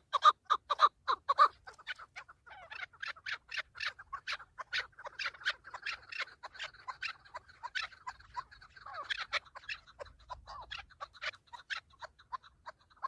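Chukar partridges calling: a fast run of repeated clucking notes, loudest in the first second and a half, then a quieter, denser string of overlapping calls.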